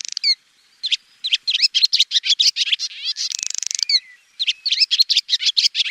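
Swallow song: rapid, high chirps and twitters with short trills and a buzzy rasping phrase, broken by two brief pauses.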